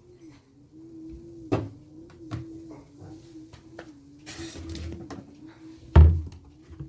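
Washing machine running with a low, slightly wavering hum, over which come several sharp knocks and clunks, the loudest about six seconds in, and a brief hiss a little after four seconds.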